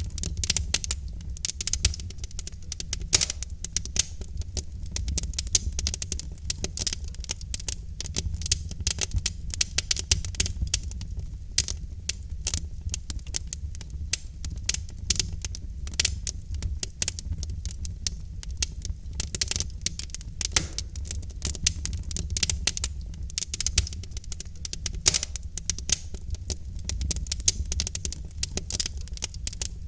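Logs burning in a fireplace, crackling with dense, irregular snaps and pops over a low, steady rumble.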